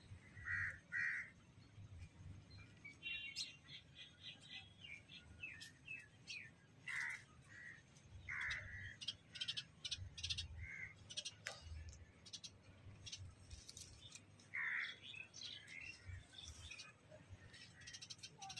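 Birds calling outdoors: many short chirps and rapid repeated notes, with a few louder, harsher calls standing out now and then.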